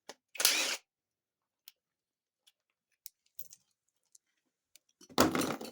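Hand work on a TH400 transmission's governor-cover parts: scattered small clicks with two louder half-second scraping noises, one just after the start and one near the end.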